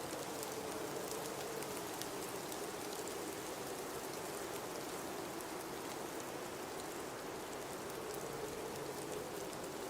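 Blizzard wind blowing steadily, a constant rushing hiss with a low, slightly wavering moan, and faint scattered ticks on top.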